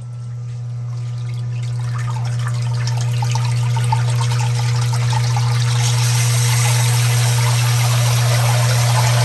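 Electric water pump running with a steady low hum while pumping out flood water. The rush of water grows louder over the first few seconds.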